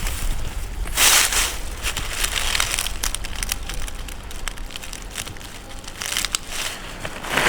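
Crinkling, rustling sheet material with many light ticks, swelling louder about a second in and again near the end.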